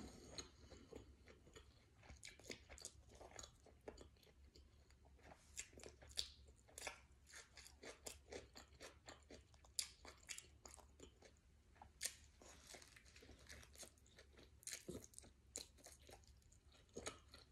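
A person chewing a mouthful of sub sandwich close to the microphone: faint, irregular wet clicks and small crunches.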